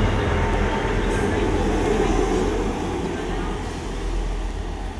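A train running at the station: a steady rail rumble that slowly fades.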